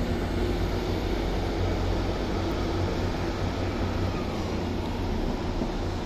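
Class 150 Sprinter diesel multiple unit running steadily, its diesel engines giving a constant low hum.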